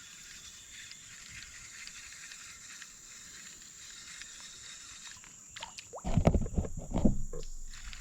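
A steady high-pitched whine over faint outdoor hiss, then about six seconds in a couple of seconds of loud, dull thumps and rustling, like gear or a fish being handled against the microphone.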